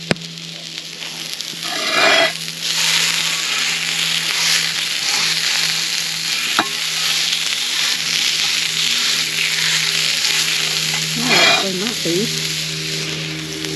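Sausage sizzling steadily on a hot Lodge cast iron griddle pan. The sizzle swells up about two seconds in, and there is a single sharp tick near the middle.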